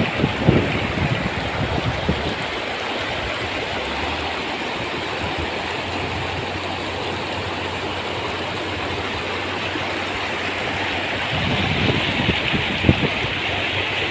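Fast-flowing river water from the waterfall, a steady rushing hiss. Low thumps of wind or handling on the microphone come near the start and again near the end.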